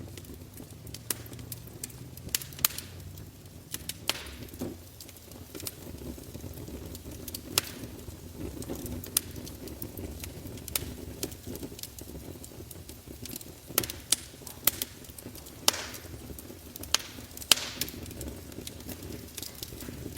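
Wood fire crackling: irregular sharp pops and snaps from burning logs, a few of them loud, over a steady low rumble.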